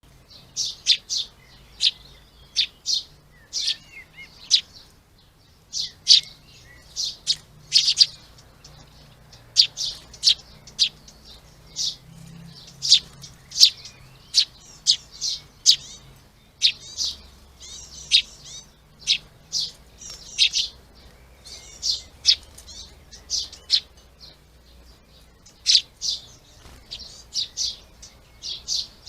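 Small garden birds chirping: a steady run of short, sharp, high chirps, about one or two a second.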